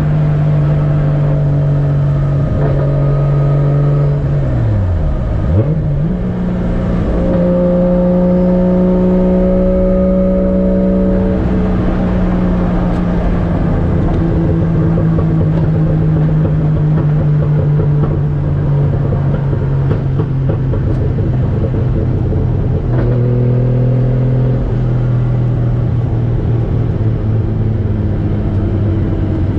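Toyota 1JZ-GTE VVTi turbocharged straight-six running steadily while driving, heard from inside the car's cabin. About five seconds in the engine note dips sharply and climbs back, as at a gear change; later it steps down to a lower pitch.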